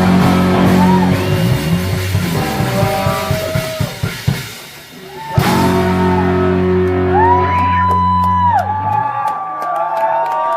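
Live rock band playing the end of a song: the band plays on, drops away briefly about four seconds in, then crashes back in on a final held chord that rings out with guitar notes sliding up and down. The low notes stop about a second before the end.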